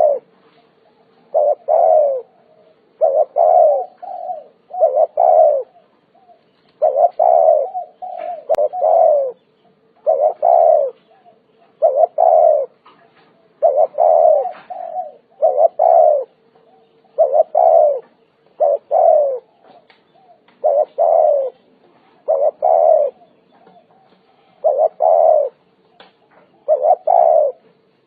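Spotted dove cooing: short coos in groups of two or three, a phrase about every two seconds, repeated steadily. A faint steady hum runs underneath.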